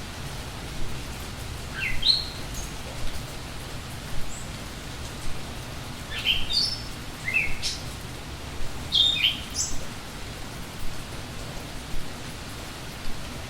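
Steady rain with a songbird calling over it in three short groups of quick rising notes: about two seconds in, again around six to eight seconds, and once more around nine seconds.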